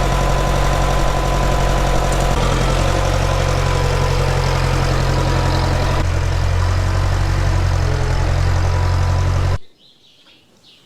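Tractor engine running steadily, its low note shifting slightly a couple of times. It cuts off abruptly near the end, leaving faint birdsong.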